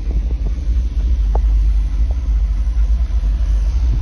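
1985 Chevy van's engine idling, a steady low rumble.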